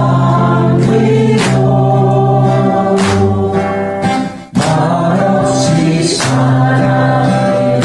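Several voices singing a song together over strummed acoustic guitar. The music dips out for a moment about four and a half seconds in.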